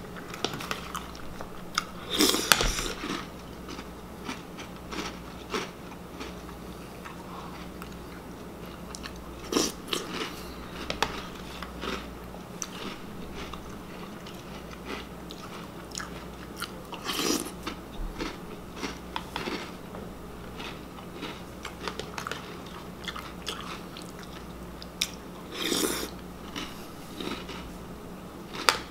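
Close-up chewing of a mouthful of Reese's Puffs cereal: steady crunching and mouth noises, with louder bursts of crunching about every seven or eight seconds.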